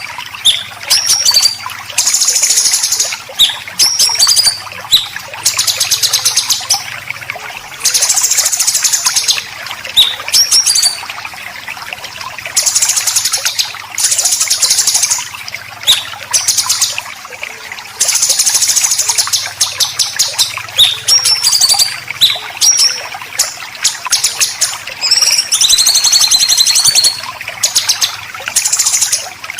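Songbirds, white-rumped shama and greater green leafbird, giving harsh, rapid rasping 'besetan' calls in repeated bursts of a second or two, broken up by short high whistled notes.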